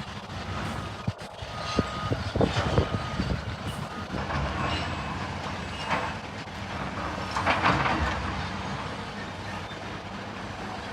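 Roadworks ambience: heavy vehicles and machinery running at a road construction site, with scattered knocks and clanks.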